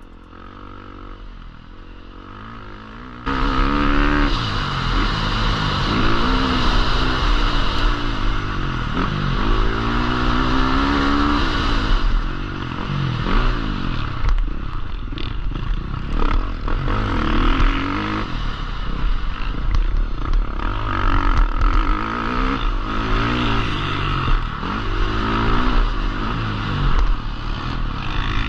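Husqvarna FC450 single-cylinder four-stroke motocross bike being ridden hard, its engine revving up and dropping back again and again through gear changes and throttle. The engine sound jumps in suddenly about three seconds in, after a quieter start.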